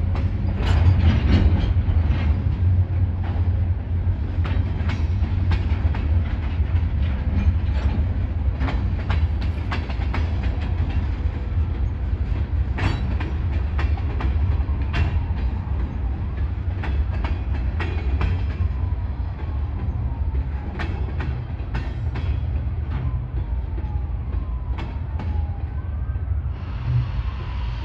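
Freight train's open-top cars rolling past: a steady low rumble with irregular clicks and clanks of wheels over the rail joints, and a few faint falling squeals in the second half.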